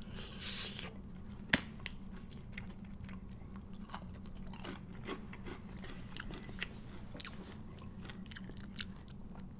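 Close-up chewing of crispy fried chicken, with wet mouth clicks, smacks and some crunching, and a sharper click about a second and a half in, over a steady low hum.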